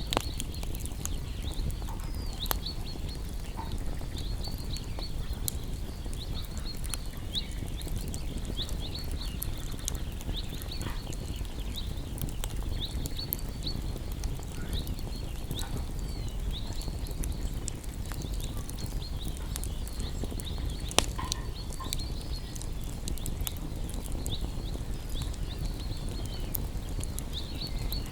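Wood campfire crackling over a steady low rumble, with scattered sharp pops and one louder pop about 21 seconds in. Rapid high chirping from small animals runs throughout.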